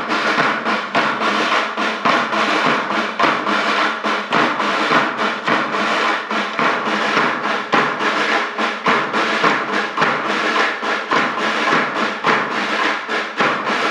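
School band drums and percussion playing a fast, dense, steady rhythm of many strikes a second.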